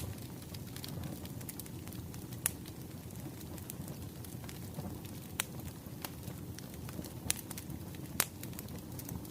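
Wood fire crackling: a steady low rumble with scattered small crackles and a few sharper pops, the loudest about two and a half, five and a half, seven and eight seconds in.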